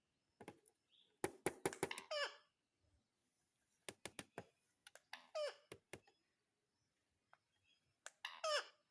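Indian ringneck parrot (rose-ringed parakeet) making quiet sounds: runs of sharp clicks and three short calls that slide down in pitch, about two, five and eight seconds in.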